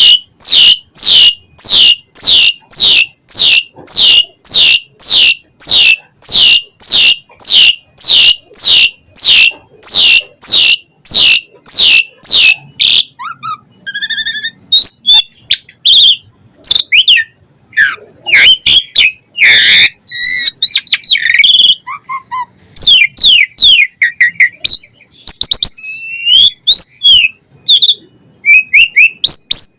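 Pied starling (jalak suren) singing: first a fast run of identical falling whistles, about two and a half a second, then, about thirteen seconds in, varied chirps, whistles and harsher notes of a full, mimicry-rich song.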